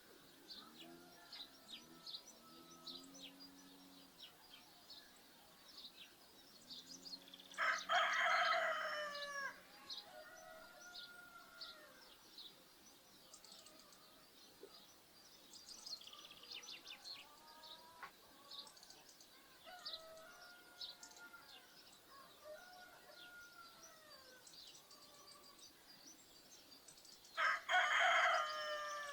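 Rooster crowing twice, about eight seconds in and again near the end, over small birds chirping throughout.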